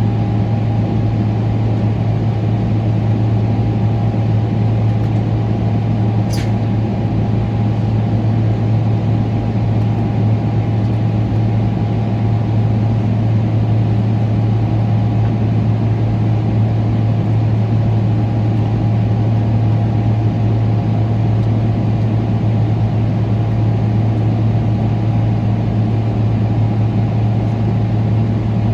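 Steady low drone of a Boeing 777-300ER's GE90 engines and airflow heard inside the cabin, with a constant hum and an even rush that do not rise or fall. A single brief click sounds about six seconds in.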